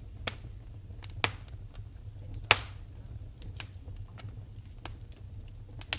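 Wood fire crackling in a fireplace: irregular sharp pops, the loudest about two and a half seconds in, over a low steady rumble of the flames.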